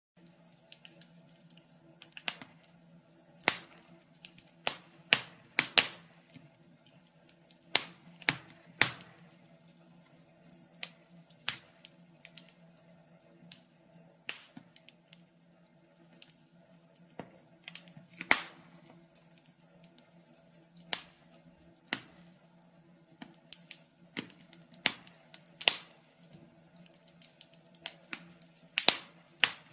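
Wood fire with logs burning and crackling: irregular sharp pops and snaps, a few much louder than the rest, over a faint steady low hum.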